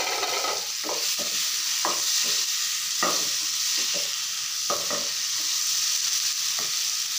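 Masala-coated paneer cubes sizzling as they fry in butter in a small nonstick pan, with a wooden spatula repeatedly scraping the pan and turning them.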